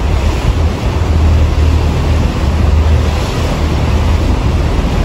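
A motorboat under way, its engine a steady low drone under the rush of water and wind buffeting the microphone.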